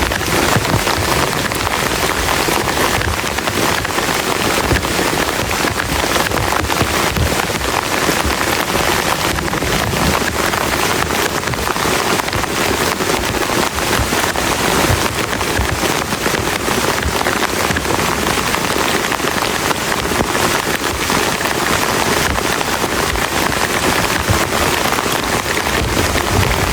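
Heavy rain falling steadily, a dense patter of drops striking a plastic camping tarp overhead.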